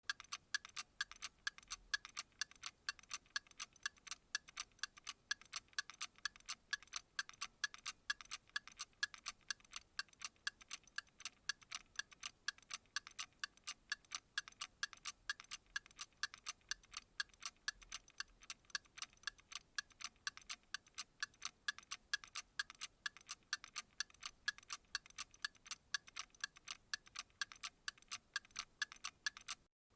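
Steady, even ticking, several sharp ticks a second, with a brief break near the end.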